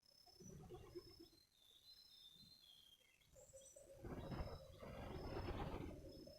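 Small birds calling, short high chirps repeating every half second or so with a few sliding notes among them. A louder swell of noise comes about four seconds in and lasts some two seconds.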